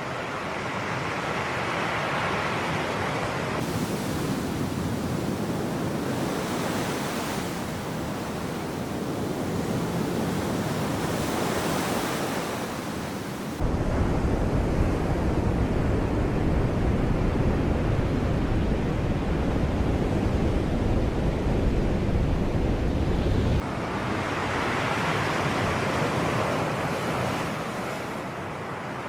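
Sea waves washing in, the surf noise swelling and ebbing. About halfway through, a deep low rumble comes in suddenly, lasts about ten seconds, then cuts off.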